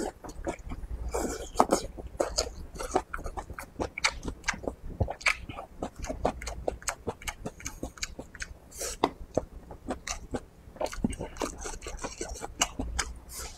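Close-miked wet chewing and lip-smacking of a person eating a mouthful of red pepper strips, green beans and braised pork. It comes as many sharp, irregular mouth clicks, several a second.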